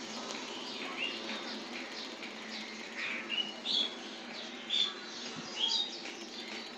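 Small birds chirping outdoors: many short high calls, some falling in pitch, come in irregular bursts over a faint steady background hum.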